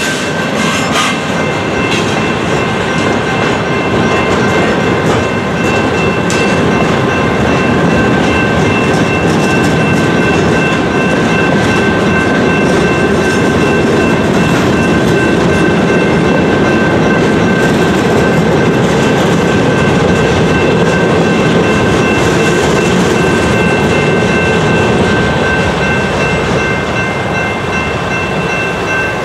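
Freight cars rolling through a grade crossing, wheels clacking steadily over the rails, with the crossing's General Signals Type 2 electronic bells ringing continuously over the train noise.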